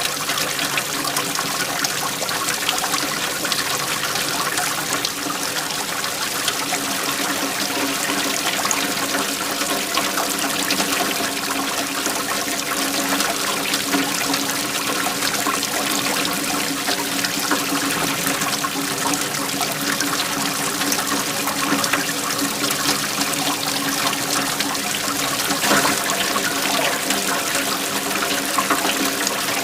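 Waterfall flowing: a steady, unbroken rush of falling and splashing water.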